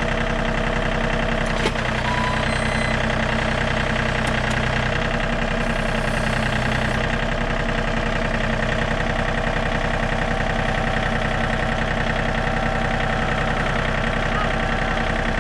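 John Deere tractor engine running steadily at a constant speed, with no change in pitch.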